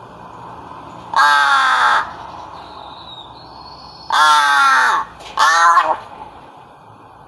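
A pet bird giving three loud, harsh calls, each falling in pitch: one about a second in, then two close together near the middle.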